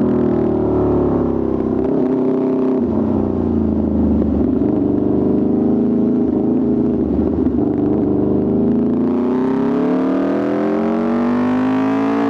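Aprilia RSV4 RR's V4 engine breathing through an Austin Racing exhaust, running under way. Its note eases down slightly early on, holds, then climbs steadily through the last few seconds as the revs rise.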